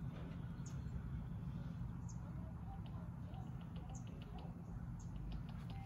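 Faint, short, high chirps of a bird come every second or so, with a quick run of ticking calls in the second half, over a low steady rumble.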